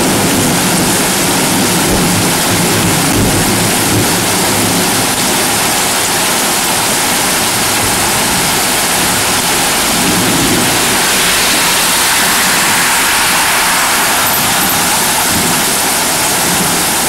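Heavy rain pouring down steadily during a thunderstorm, a loud, even hiss.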